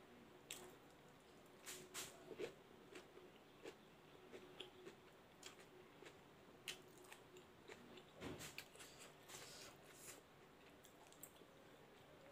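Faint mouth sounds of eating by hand: chewing and crunching of raw shredded cabbage salad and rice, with a dozen or so short, scattered clicks and smacks. A faint steady hum runs underneath.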